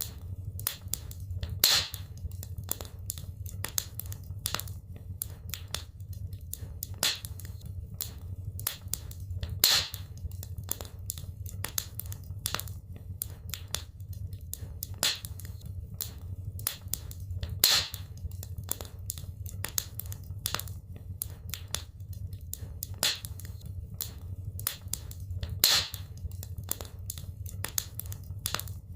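Wood fire burning in a fireplace, crackling steadily with dense small snaps over a low rumble. A louder pop comes about every eight seconds.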